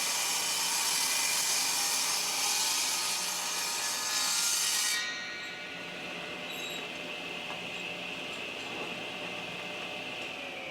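Table saw blade ripping through very dense hardwood, with a loud cutting noise. About halfway through the cut ends and the saw keeps running free with a steady whine, which starts to drop in pitch at the very end as the saw winds down.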